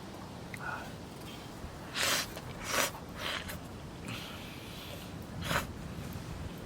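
A person eating hot food from a hot pot, making about four short, breathy slurping sounds between quieter mouth noises.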